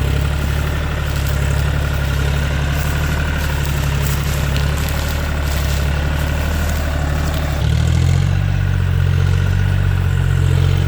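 John Deere 5105 tractor's three-cylinder diesel engine running steadily while pulling a loaded sugarcane trolley. Its note shifts and gets slightly louder nearly eight seconds in.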